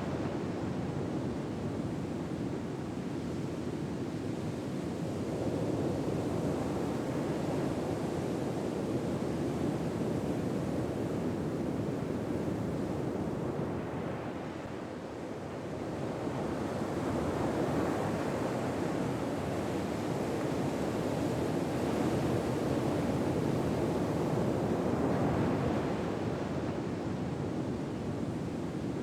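Ocean waves breaking on a shore in a steady ambience, each slow swell of surf rising and easing over several seconds.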